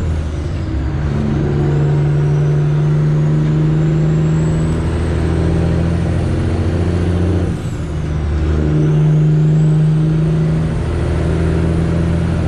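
Straight-piped Detroit Diesel Series 60 in a Freightliner Classic XL running steadily under load, heard from the cab. A little over halfway through, the engine note dips briefly and then picks up again.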